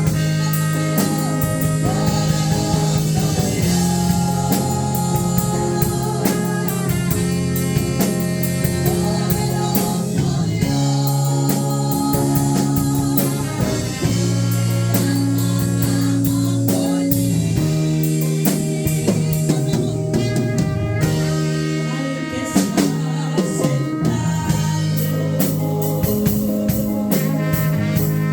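Praise-and-worship music: a band with drums and guitar over sustained keyboard or bass notes, with a voice singing.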